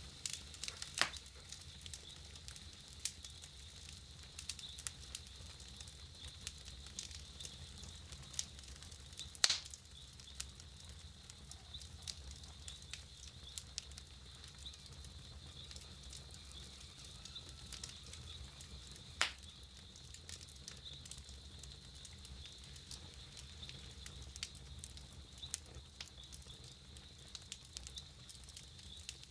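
Wood campfire crackling with frequent small snaps and a few louder sharp pops, the loudest about a third of the way in and another about two-thirds through, over a faint steady high-pitched tone.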